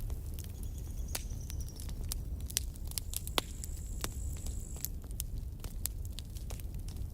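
Campfire crackling: irregular sharp pops and snaps of burning wood over a steady low rumble, with a faint thin high whistle near the start and again in the middle.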